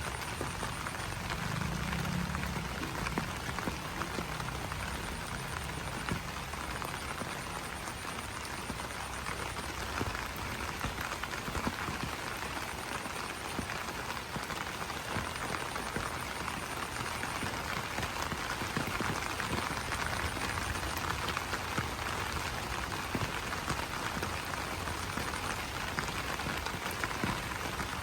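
Steady rain falling on banana leaves: an even hiss dotted with many small drop ticks. A low croak sounds about two seconds in, and a faint high pulsing chirr comes and goes.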